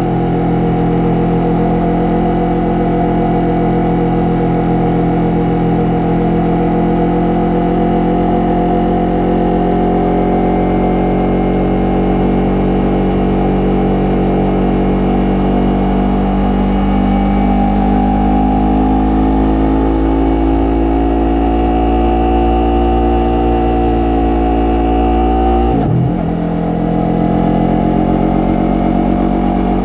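Yamaha MT-03 motorcycle engine and exhaust under way, the engine note slowly rising and falling with the throttle. Near the end it breaks off briefly, then the pitch climbs again.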